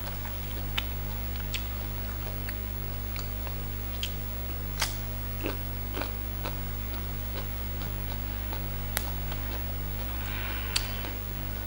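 Close-miked eating sounds: scattered soft crunches and clicks of chewing and of fresh leafy greens being torn and handled, with a brief rustle of leaves near the end. A steady low hum runs underneath.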